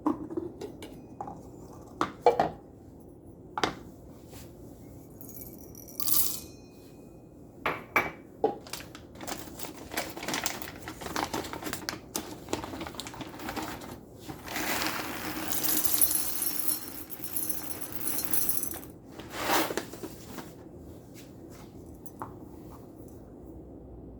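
Whole coffee beans poured and rattling into a plastic grinder cup, after a few sharp clicks and knocks of the container and lid being handled. The rattle builds from about a third of the way in and is heaviest a little past the middle, then stops with one last clatter.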